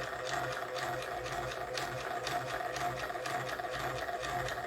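Small electric motor and gearing of an animated model-railroad track crew accessory whirring steadily, with a rapid, even clatter of mechanical ticks over a low hum.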